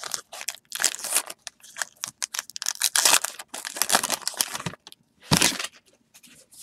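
Baseball trading cards being slid and flipped through by hand, a quick irregular run of dry papery swishes and crinkles, with one louder rustle about five seconds in.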